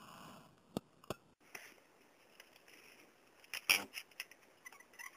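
A few sharp clicks and brief rustling handling noises, the loudest a short scrape a little past halfway; no motor is heard running.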